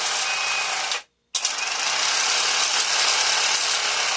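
Handheld power tool working metal bus bars, opening up their holes and throwing metal shavings. It runs at full speed, cuts off about a second in, and starts again a moment later to run until near the end.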